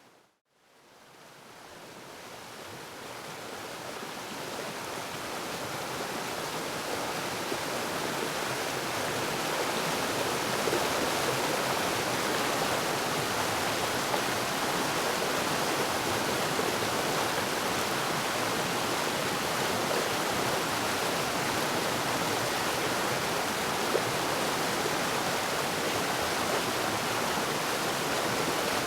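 Waterfall: steady rushing water. It cuts to silence for a moment right at the start, then fades back in gradually over several seconds and holds steady.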